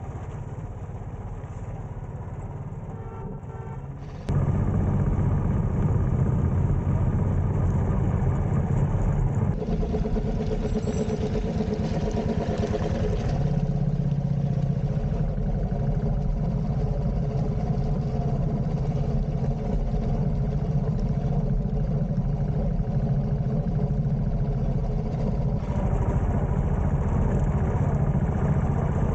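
Royal Enfield motorcycle engine running while riding, with the sound jumping abruptly louder about four seconds in and changing suddenly a couple more times.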